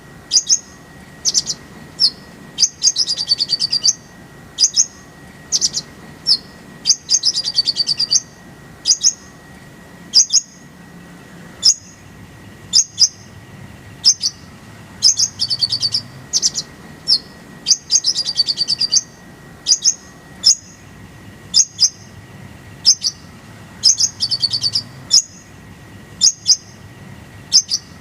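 Kolibri ninja sunbird singing in quick, sharp, high chirps and short rattling trills, repeated with brief gaps between phrases: the rolls and sharp shooting notes used as a tutor song for songbirds.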